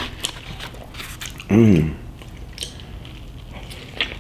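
Close-up chewing of a mouthful of burger: soft wet clicks and smacks of the mouth, with one short hummed voice sound about a second and a half in.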